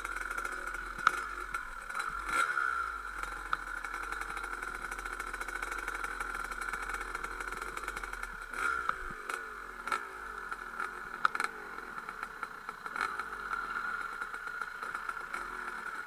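Dirt bike engine running at trail pace, its pitch rising and falling with the throttle, with sharp clicks and knocks from time to time.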